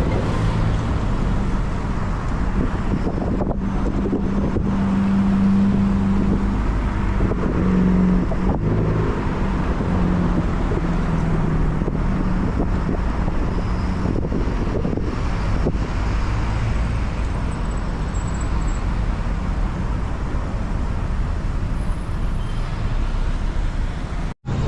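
Road traffic noise: a steady rush with the low hum of a nearby motor vehicle engine, its pitch shifting slightly. The sound cuts out for an instant near the end.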